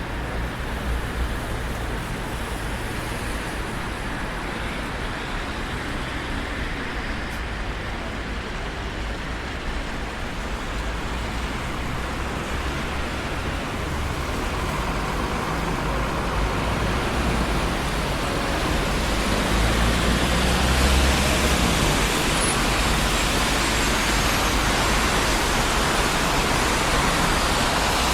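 Traffic on a busy city street: a steady rush of tyres and engines. It grows louder past the middle, with a deeper rumble about two-thirds of the way through.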